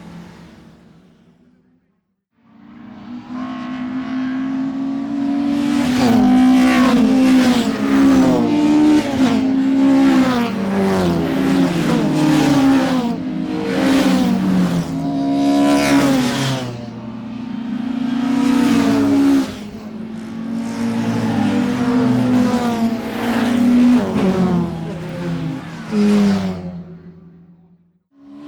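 Racing car engines revving hard, their pitch climbing and dropping again and again through gear changes and lifts, with several engine notes overlapping. It fades in after a brief silence about two seconds in and fades out near the end.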